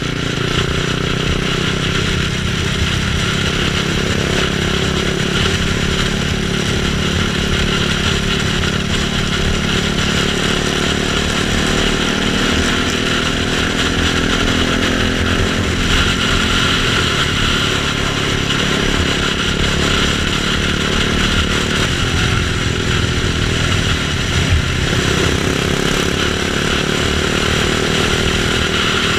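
KTM 690 Duke's single-cylinder engine running steadily at riding speed, with its pitch drifting only slightly, under an even rush of wind and road noise.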